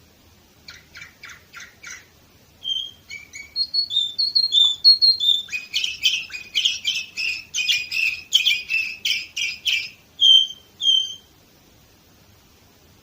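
Domestic canary singing: a few soft quick notes, then varied phrases that build into a fast, loud trill, closing with two separate notes.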